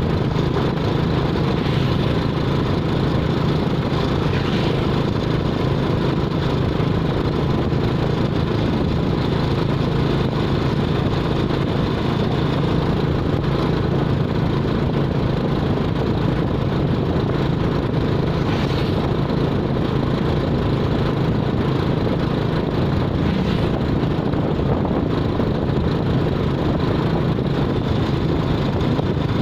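A vehicle's engine running steadily with a constant low drone, no change in speed or pitch.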